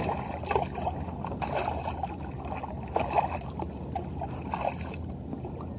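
Water splashing and lapping against a kayak's hull, with irregular small splashes throughout over a low steady rumble.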